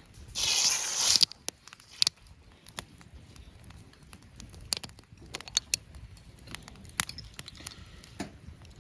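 A wood campfire crackling: sparse sharp snaps and pops, after a short burst of loud rustling noise about a second in.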